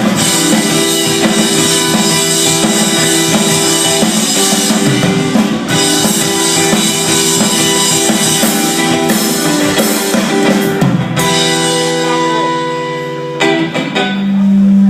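Rock band playing a song on drum kit and guitar. About eleven seconds in the drumming stops and a held chord rings out to end the song, followed by a strong steady low tone near the end.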